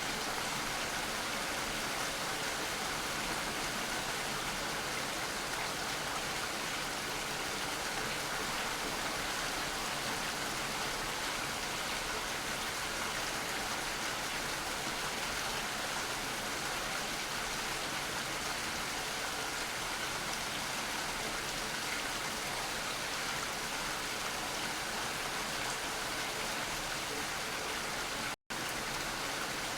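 Steady rain falling, an even hiss with no single drops or other sounds standing out. It drops out for an instant near the end.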